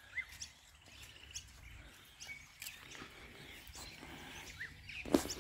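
Small birds chirping faintly in short, scattered calls over light outdoor ambience, with one sharp, louder knock-like sound near the end.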